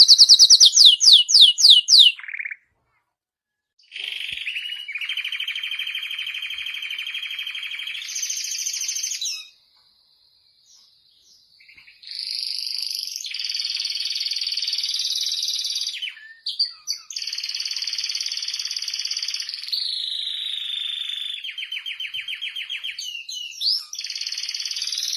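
Domestic canary singing: long phrases of fast, even trills and rolls, broken by two short pauses, about 2.5 s in and about 10 s in.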